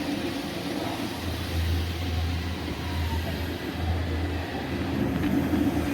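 iRobot Roomba 692 robot vacuum running, a steady mechanical whir with a low hum that comes in about a second in.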